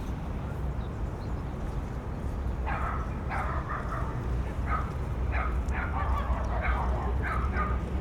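Steady wind rumble on the microphone; from about three seconds in, a run of short repeated calls from waterfowl, several a second.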